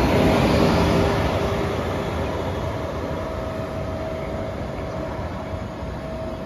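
Trenitalia Intercity train running out of the station and moving away, its rumble of wheels and traction fading steadily, with a steady whine held through it.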